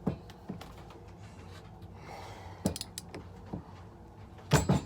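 A socket wrench and bolt clicking and knocking against a small chainsaw as a bolt is worked loose with a socket that doesn't fit well. There are scattered single clicks, then a louder quick pair of knocks near the end.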